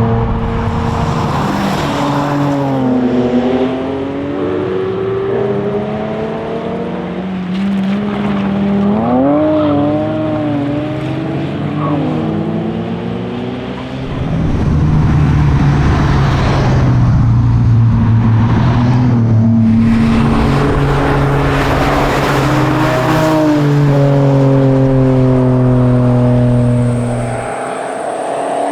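Toyota Supra MA70's straight-six engine being driven hard, its note rising and dropping again and again through gear changes and lifts. In the second half it holds a loud, fairly steady pitch for several seconds, then drops away about a second before the end.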